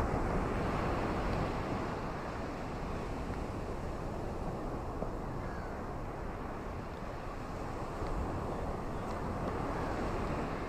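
Ocean waves washing onto a beach, a steady rush of surf that swells at the start and again about eight seconds in.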